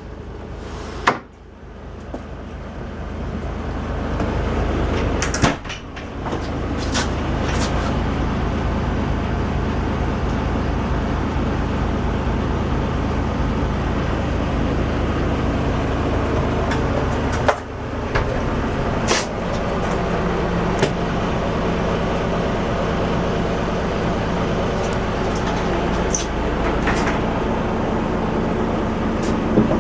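Boat engine running steadily, its tone shifting slightly about two-thirds of the way through, with scattered sharp clicks and knocks over it.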